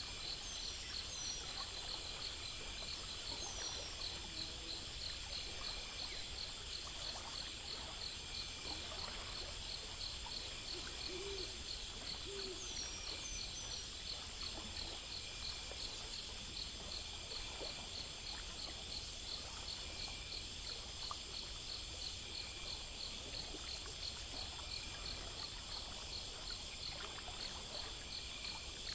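Night ambience of insects, likely crickets, chirping steadily in fast, even pulses, with an owl hooting softly a few times, about four seconds in and again around eleven to twelve seconds.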